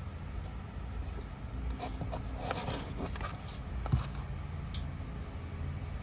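Rubbing and scraping handling sounds for about two seconds, then a single sharp click, over a steady low hum.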